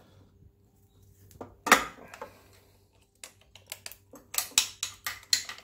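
Hand tools on metal working a 12 mm bolt loose from the starter motor of a Suzuki F6A engine: one sharp metal clank about a second and a half in, then a quick run of sharp metallic clicks in the second half.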